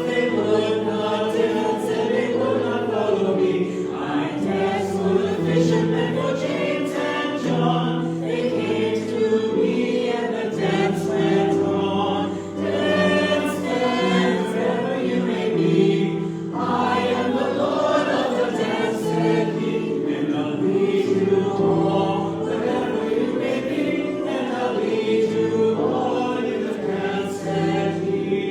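Church congregation singing a hymn together, with held notes changing phrase by phrase throughout.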